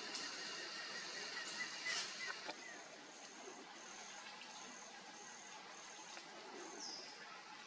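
Rainforest insects buzzing and chirping in high, pulsing tones, with a quick run of short animal calls about two seconds in and a brief falling whistle near the end.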